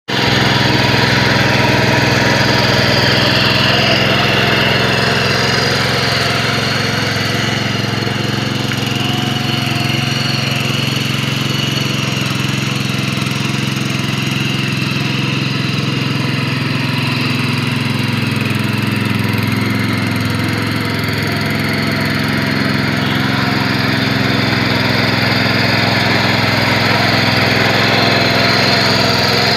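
7.5 HP single-cylinder petrol engine running steadily at a constant speed.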